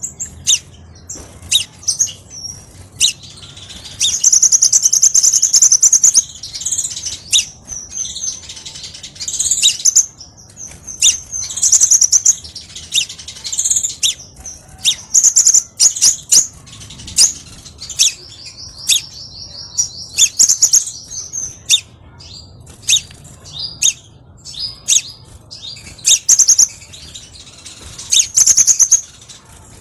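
Crimson sunbird singing: rapid high-pitched trills mixed with many short, sharp chips, the longest trills a few seconds each.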